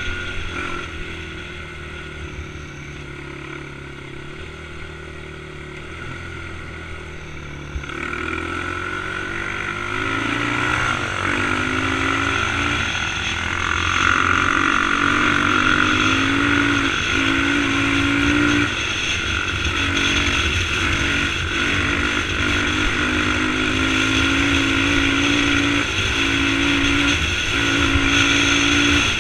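Dirt bike engine running under way, its pitch stepping up and down as the throttle and gears change, with a steady rush of riding wind. It gets louder about eight seconds in.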